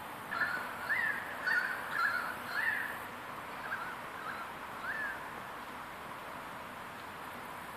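A bird calling outdoors: a run of about eight short chirping notes, each rising and then dipping in pitch, louder in the first three seconds and fainter up to about five seconds in, over a steady background hiss.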